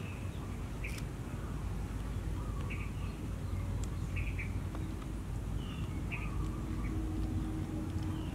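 Birds chirping in short, high calls every second or two over a steady low rumble, with a faint steady hum joining about halfway through.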